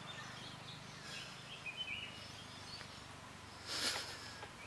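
Outdoor ambience with small birds chirping in short calls, and a brief rustle about four seconds in.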